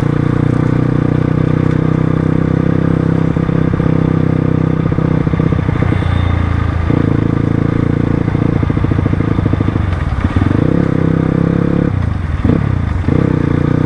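Crossfire RM250 dirt bike's engine running steadily while riding. Its pitch drops briefly about ten seconds in and twice more near the end as the throttle eases off.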